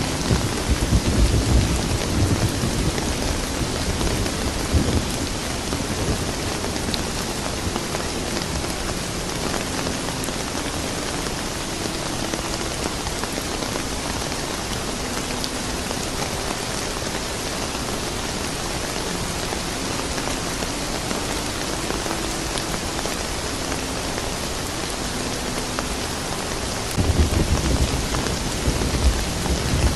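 Steady rain, with low rolling thunder rumbling in the first few seconds and building again near the end.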